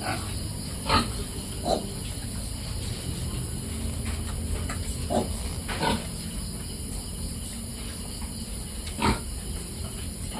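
Piglets giving about five short, scattered squealing calls over a steady background hiss.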